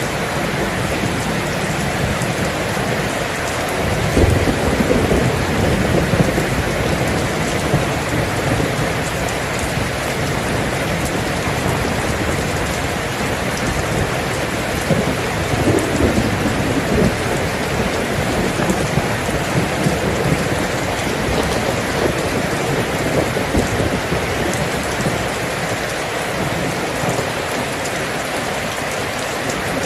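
Steady, dense rain, with low rumbling swells about four seconds in and again around sixteen seconds.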